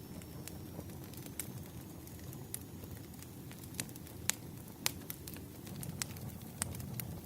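Wood fire crackling: a steady low rumble of burning logs with irregular sharp pops and snaps, the loudest two a little past four and five seconds in.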